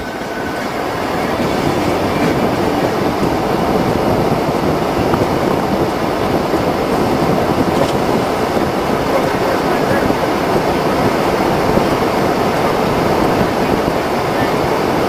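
Car driving on a highway through a blizzard: steady rushing wind and road noise, building a little in the first couple of seconds and then level.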